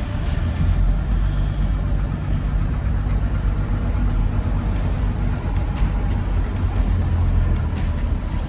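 Truck engine running with road noise while driving, a steady low rumble.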